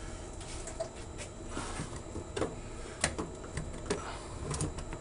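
Irregular light clicks and knocks of a glued plastic drain pipe and coupling being handled and pushed together into place.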